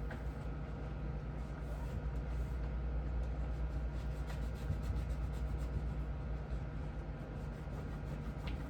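Steady low mechanical hum with faint rubbing and light scattered clicks over it, and a sharper knock near the end.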